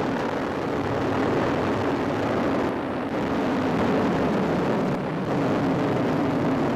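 Ariane rocket's engines and boosters firing just after liftoff: a steady, dense noise that holds level without a break.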